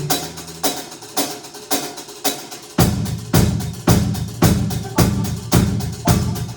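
Live rock band playing a steady beat at nearly two strokes a second. Deep bass comes in about three seconds in.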